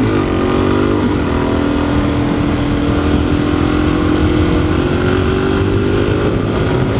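Dual-sport motorcycle engine running under the rider through a curve. Its pitch dips twice in the first second, then holds and slowly climbs as it pulls out, over a steady low rumble of wind and road.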